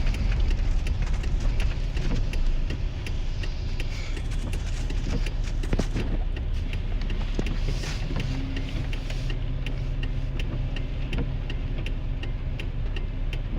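Inside the cab of a 2001 GMC Sierra pickup in heavy rain: rain and wet-road tyre noise that eases as the truck slows, with the hiss dropping away about nine seconds in. From there a low steady engine idle hum is left, and even light ticks run throughout.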